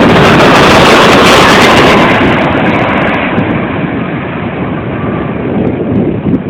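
Jet engines of a Boeing 767-300ER airliner at takeoff power, loud at first and fading steadily after about two seconds as the aircraft departs, with wind buffeting the microphone.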